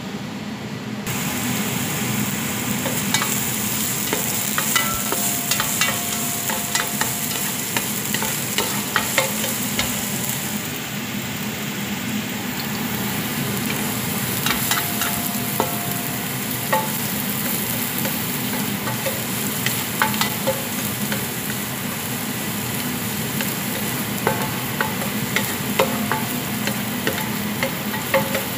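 Minced garlic and ginger sizzling in hot oil in a pan, the sizzle starting suddenly about a second in as they go into the oil. A spatula stirs them, scraping and clicking against the pan throughout.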